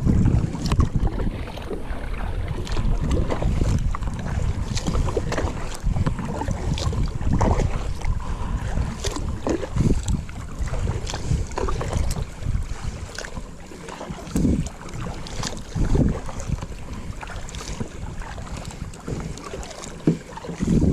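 Wind buffeting a small action-camera microphone as a low, uneven rumble, with scattered small knocks and clicks from handling on a kayak.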